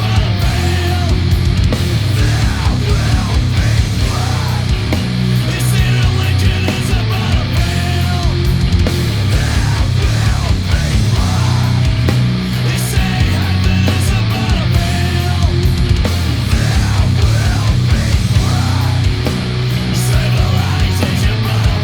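Heavy metal/punk band track playing: distorted electric guitars, bass and drums in a loud, dense, unbroken wall of sound.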